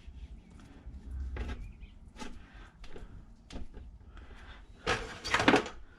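Hand-handling noises of stripped lamp wires being twisted together: scattered light clicks and rustles, with a louder rustle about five seconds in.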